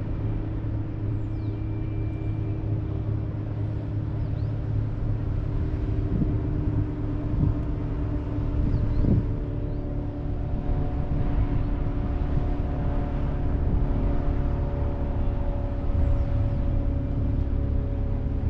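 An engine running steadily with a low rumble and a steady hum, its pitch shifting slightly about halfway through.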